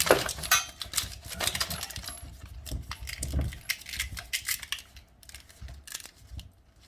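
Irregular clicks and small metallic rattles from a toilet water supply line and its fittings being handled and connected by hand, busiest over the first few seconds and thinning out.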